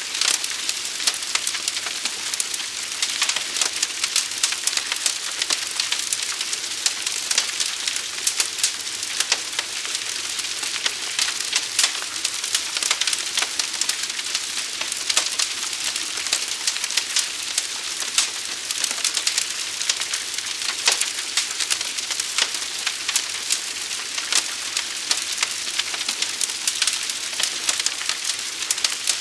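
Fire burning with a steady hiss and dense, irregular crackles and pops of burning wood throughout.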